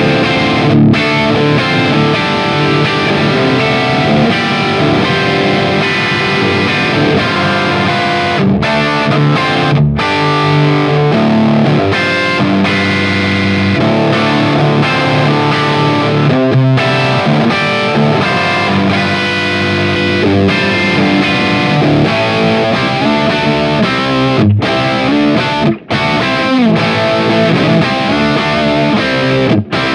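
Electric guitar played through an overdriven tube-style amp, chords and sustained notes with a distorted tone and a few short breaks between phrases.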